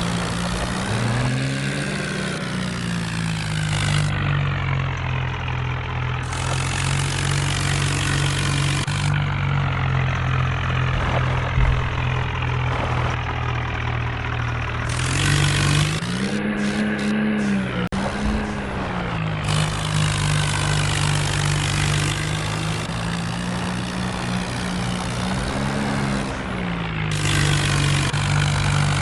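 Tractor diesel engines labouring under heavy load, the engine note swelling up and dropping back several times as they are revved to pull.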